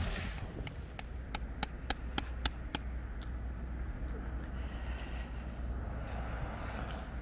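A quick run of about seven sharp metallic clinks over a little more than a second, over a steady low rumble of strong wind.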